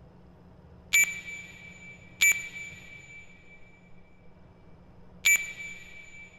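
Three sharp strikes, each ringing out with a high bell-like tone that slowly fades: about a second in, a second later, then three seconds after that. A faint low steady hum runs underneath.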